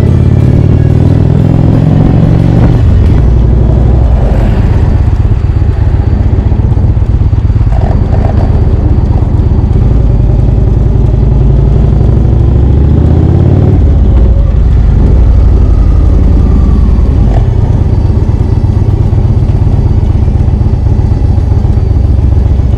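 Indian Chieftain's V-twin engine running loudly under way. The engine note changes about three seconds in and again near fourteen seconds.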